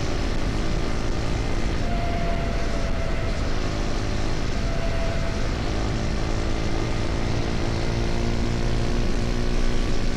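KTM Duke 250's single-cylinder engine running at a steady cruising pitch on the highway, over a constant rush of wind and road noise.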